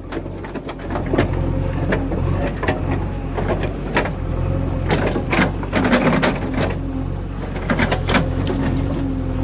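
Heavy diesel engine running steadily at a low pitch, with irregular knocks and rattles over it throughout.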